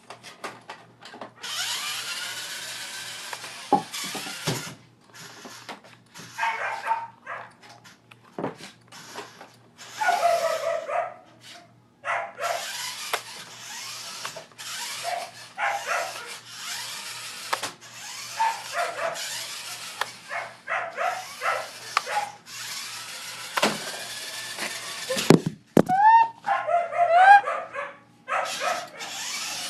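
Toddler yelling and crying in repeated bouts of a second or more, some strained and breathy, the loudest cries near the end: a small child frightened by a toy ride-on truck and calling for help.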